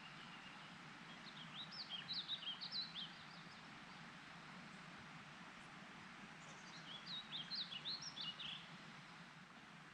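A songbird singing two quick phrases of high, jumpy chirping notes, one about a second in and one about six and a half seconds in, over a steady outdoor hiss.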